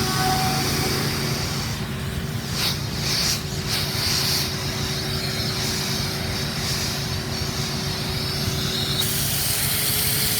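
Machinery running steadily with a constant hum and a held tone that steps slightly higher near the end. A stretch of hissing comes between about two and four and a half seconds in.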